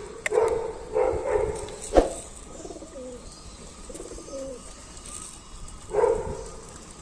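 Pigeons cooing, low repeated coos at the start, about a second in and again near the end, with a single sharp tap about two seconds in.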